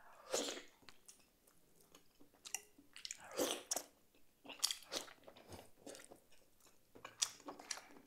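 A person biting into and chewing a piece of boiled meat: wet chewing and mouth sounds in irregular bursts about a second apart.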